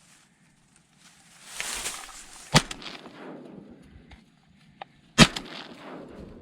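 Two shotgun shots about two and a half seconds apart, fired at an incoming duck. A rush of noise comes just before the first shot.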